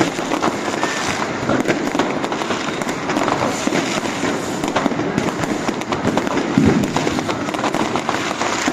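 Fireworks and firecrackers going off all around in a continuous, dense crackle of bangs and pops.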